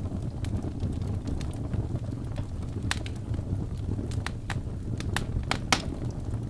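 Wood fire burning in a fireplace: a steady low rush of flame with irregular sharp crackles and pops from the burning logs, several in quick succession a little past the middle.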